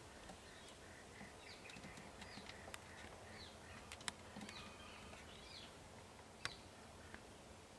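Faint bird calls, short chirps and trills, over quiet outdoor background noise, with a few sharp clicks.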